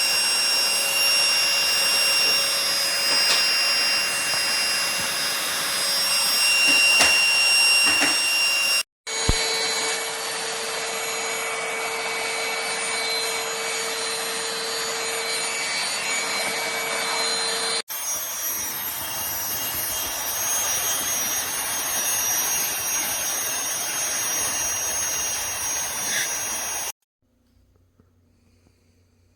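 Aspiron handheld cordless vacuum cleaner running steadily, a high motor whine over a rush of airflow. It is heard in three stretches broken by abrupt cuts, and stops abruptly a few seconds before the end.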